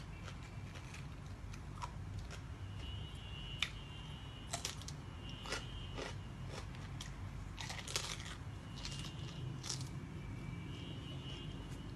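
Close-up crunching and chewing of food, a dozen or so irregular crisp bites and chews.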